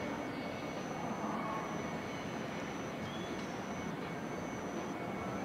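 Kyoto-based JR 117 series electric train approaching slowly, heard as a steady, even rumble from a distance.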